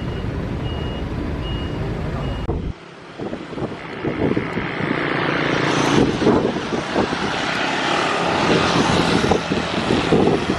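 Jet airliner's engines rushing and growing louder as it passes close by. Before that, a steady low rumble with a short beep about twice a second cuts off abruptly near the start.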